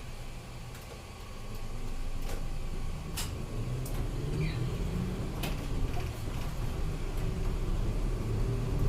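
City route bus's diesel engine heard from inside the cabin as the bus pulls away from a stop, the drone rising and building from about a second and a half in. A few sharp clicks and rattles sound over it.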